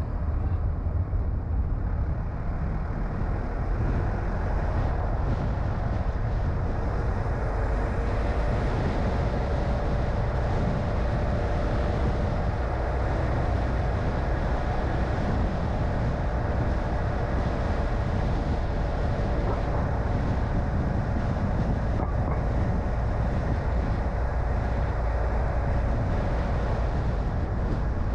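Car driving on a road: steady engine and tyre noise with a deep rumble. From about eight seconds in until near the end, a faint steady whine sits above it.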